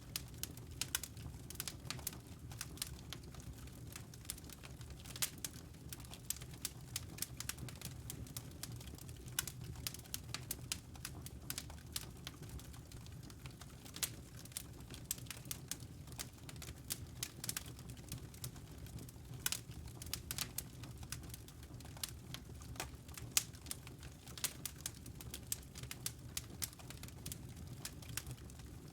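Wood fire crackling in a fireplace: a steady stream of irregular sharp pops and snaps over a low, even rumble.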